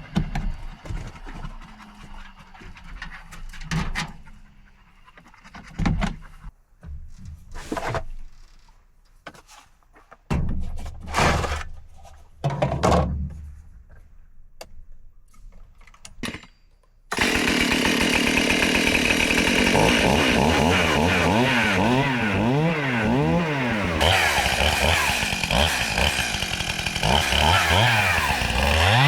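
A few knocks and clunks, then about two-thirds of the way in a two-stroke chainsaw starts and runs loud and steady, its engine pitch rising and falling over and over.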